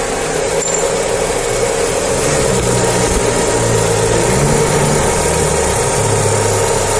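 Chevrolet Onix 1.0 four-cylinder engine idling steadily, heard up close at its spinning belt pulleys and tensioner, with a new water pump fitted while a persistent belt noise is being tracked down.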